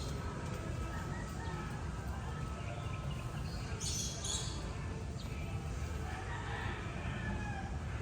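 Birds chirping, with a short bright cluster of high chirps about four seconds in, over a steady low outdoor rumble.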